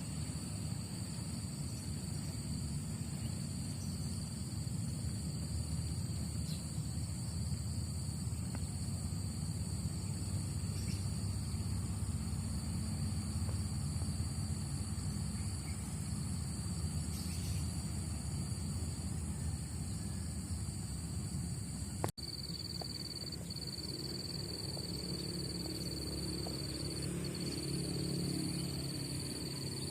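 Riverside morning ambience: a steady low rush of water or wind under a continuous high-pitched insect drone. About two-thirds of the way through the recording cuts, and after that the insect drone is louder and slightly broken.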